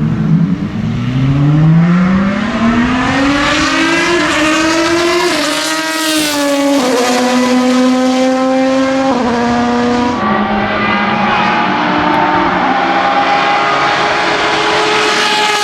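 V12 supercar engine under hard acceleration: the note climbs steeply in pitch for about five seconds, then drops with about three quick upshifts, climbing slowly again after each.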